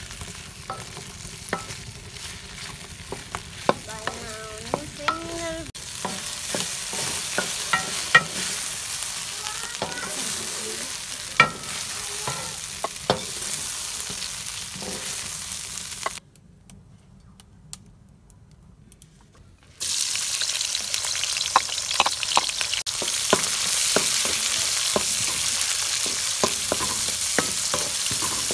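Cut okra and then sliced onions sizzling as they fry in an aluminium pan, with a wooden spatula scraping and knocking against the pan as they are stirred. The frying drops almost silent for a few seconds past the middle, then comes back louder and steady near the end.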